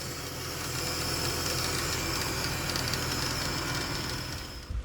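Ford BF Falcon engine idling steadily, with a thin high whine over the running: a bit of a noise is still there after the restart. It cuts off suddenly near the end.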